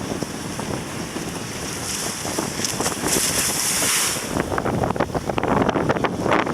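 Strong wind buffeting the microphone over rushing water while kitesurfing. A brighter hiss swells for a couple of seconds midway, then gives way to gusty, uneven blasts.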